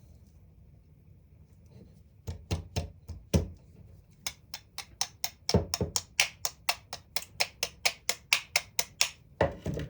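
Sharp, hard knocks on the tool's metal parts: a few single ones, then a fast, even run of about four a second, and one more near the end.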